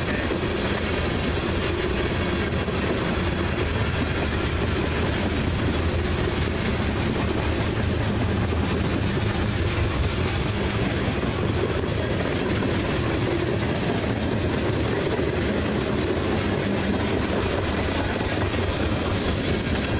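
Freight train of tank cars and covered hoppers rolling past, a steady rumble and rattle of steel wheels on the rails.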